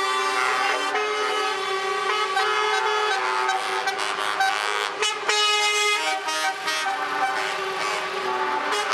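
Several truck air horns blowing at once, overlapping steady tones held on, with a short break about five seconds in.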